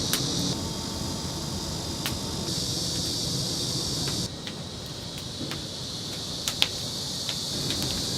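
Steady high sizzling hiss with scattered sharp crackles and pops from chicken roasting over an oak-wood fire.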